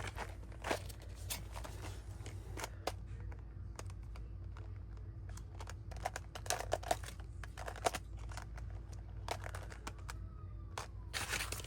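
Paper rustling and crinkling with scattered light taps and clicks as small paper pieces are handled and tucked onto a journal page.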